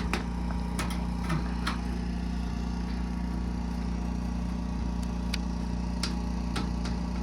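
A steady low motor hum, like an engine running at idle, with a few light clicks scattered through it.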